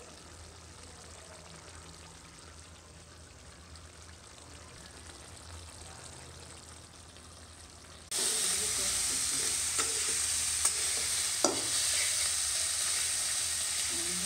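Shrimp frying in hot oil in a karahi: a loud, steady sizzle that starts suddenly about eight seconds in, with a spatula scraping and clicking against the pan as they are stirred. Before that there is only a faint low hum.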